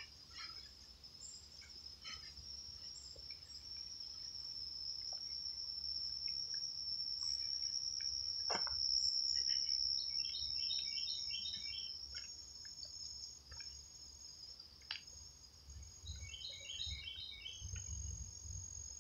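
Crickets or similar insects trilling steadily on one high pitch, with a bird giving two short runs of rapid repeated notes, one about halfway through and one near the end. A couple of sharp clicks, like footfalls or twigs underfoot, stand out along the way.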